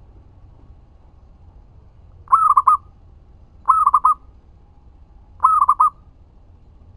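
Zebra dove (perkutut) cooing three times, each phrase a quick run of a few soft notes lasting about half a second, with pauses of a second or so between them.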